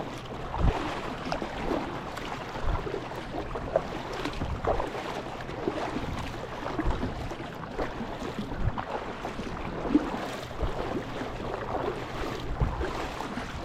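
Water sloshing and lapping against a kayak hull on the sea, with wind on the microphone and irregular low knocks every second or two.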